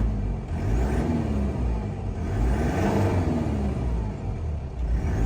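Toyota Land Cruiser Prado KZJ95's 1KZ-TE four-cylinder turbo diesel engine being revved in repeated blips, its pitch rising and falling several times over a low diesel rumble.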